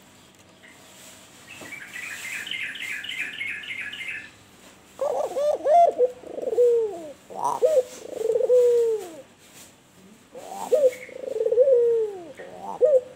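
Albino turtle dove cooing: a run of low, gliding coo phrases in two bouts, starting about five seconds in. Before the coos comes a quick, high chirping trill lasting a couple of seconds.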